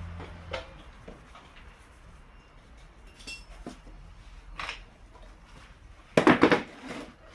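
Metal tools and parts clinking and tapping now and then while a motorcycle rear wheel and tyre are worked on, with one louder metallic clatter near the end.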